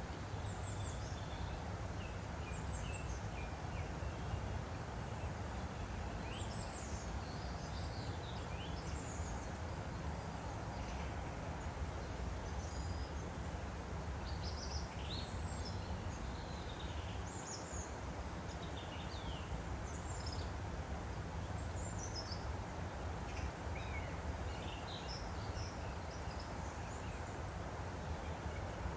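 Woodland stream flowing steadily, with small birds chirping and singing in short quick calls throughout.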